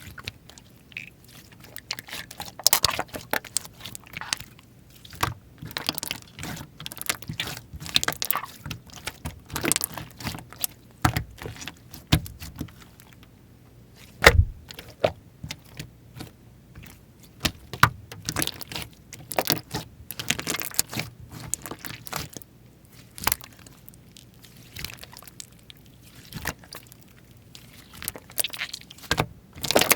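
Slime being played with by hand: an irregular run of sticky clicks, crackles and pops, with one louder snap about halfway through.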